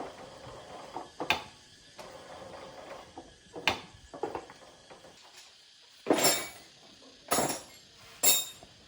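Metal clinks and knocks of hand tools and parts being handled: a handful of separate sharp strikes a second or more apart, with the three loudest in the last few seconds.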